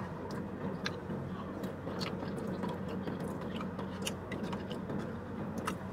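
A man chewing a mouthful of food, with scattered light clicks and scrapes of a metal fork in a foam takeout container, over a low steady hum.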